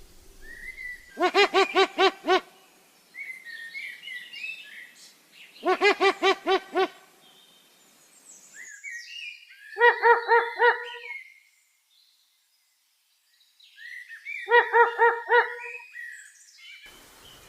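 A bird calling in four bouts of rapid repeated pitched notes, about six notes in a second each time, with fainter short chirps of other birds between the bouts.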